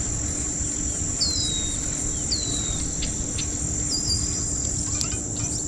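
Steady high-pitched insect chorus with a few short bird calls, each sliding down in pitch, about one a second.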